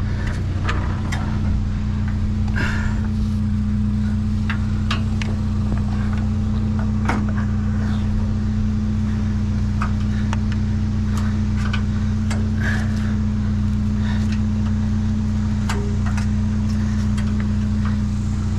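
A vehicle engine idling with a steady low hum, with scattered knocks and clicks of things being handled over it.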